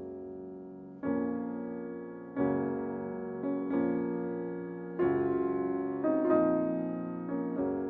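Solo piano music, slow sustained chords struck about once a second or two, each note left to ring and fade.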